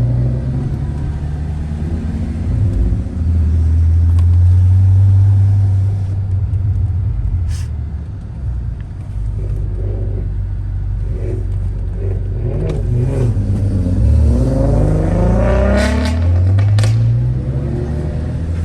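Car engine running at a steady pitch, then revving up twice near the end as the car accelerates, with a short break between the two climbs like a gear change. A few sharp clicks sound over it.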